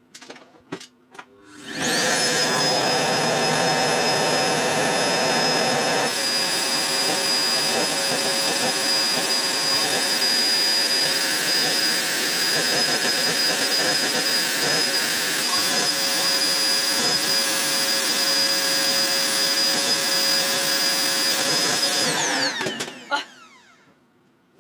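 Household vacuum cleaner switched on about two seconds in and running steadily with a high whine for about twenty seconds, then switched off and winding down near the end, its pitch falling.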